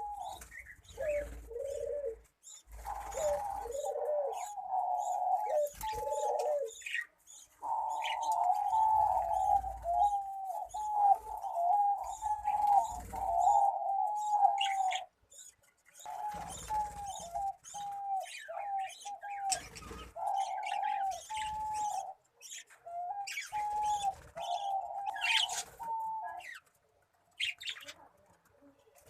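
Pigeons cooing over and over in short repeated phrases, with smaller birds chirping higher up. The cooing breaks off briefly about halfway through and again near the end.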